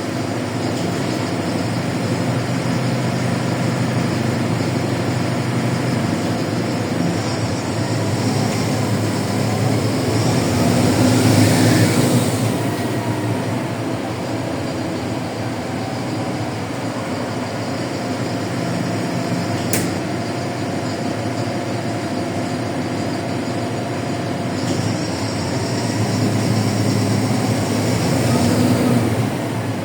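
LiAZ 4292.60 city bus riding along, with a steady mix of diesel engine and road noise. The engine note rises as the bus pulls away about ten seconds in and again near the end. There is a single sharp click a little before the twenty-second mark.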